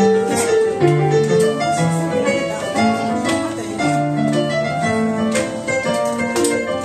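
Instrumental introduction played on piano or keyboard: a run of held notes and chords with no voice.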